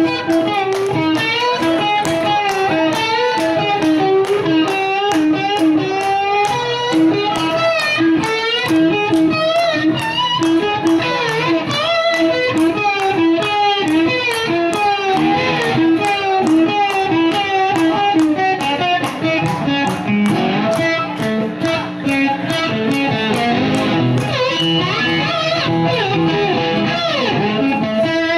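Live rock band playing an instrumental passage: electric guitar lead with bending, wavering notes over bass and a steady drum beat.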